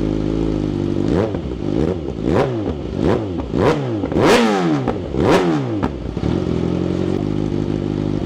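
2024 Kawasaki ZX-6R inline-four engine with a full titanium Graves exhaust, idling, then revved about seven times in quick succession, each rev rising and dropping sharply, before settling back to a steady idle.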